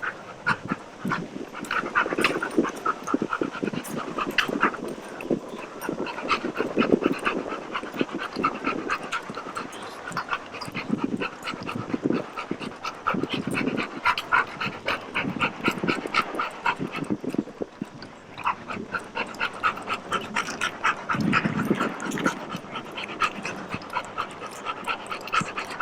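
Dog panting in quick, even breaths, with brief pauses about ten and eighteen seconds in.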